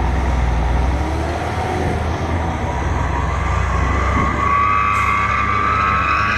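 Ten-wheel dump truck's diesel engine pulling under load after a shift into second gear, a steady low rumble; about four seconds in a high whine joins and rises slowly in pitch as the engine builds speed.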